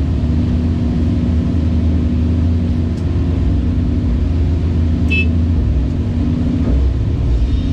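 Caterpillar 349E excavator's diesel engine and hydraulics running steadily, the pitch easing briefly about three seconds in and shifting again near the end, with a short high-pitched chirp about five seconds in.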